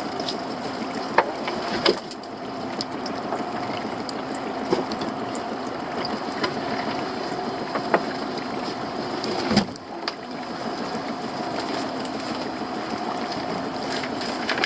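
Small boat's outboard motor running steadily at low speed, with scattered clicks and knocks on the boat and one louder knock about ten seconds in.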